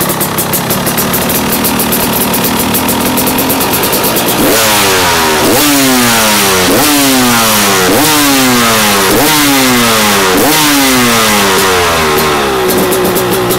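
KTM 300 EXC two-stroke single-cylinder engine idling. About four seconds in, the throttle is blipped over and over: some seven quick revs a little over a second apart, each one snapping up and then falling back. Near the end it settles back to idle.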